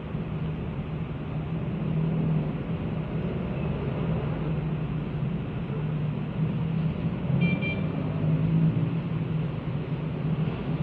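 Motorcycle running on the road, a steady engine drone mixed with road and wind noise. A short high beep sounds about seven and a half seconds in.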